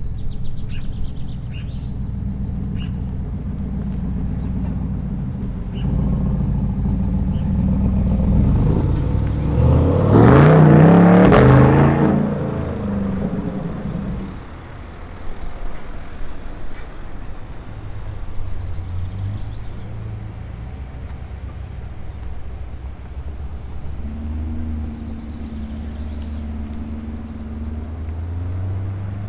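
Car engines running at low speed; about ten seconds in, one car accelerates hard, its note rising sharply to the loudest point before fading as it pulls away. Another engine then carries on rumbling at low revs.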